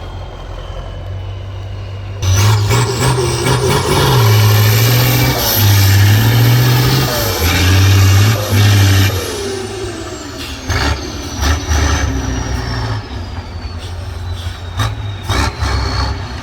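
Off-road trial truck's engine running low, then revving hard under load from about two seconds in, rising and falling with a high whine over it. After about nine seconds it drops back, with a scatter of sharp knocks.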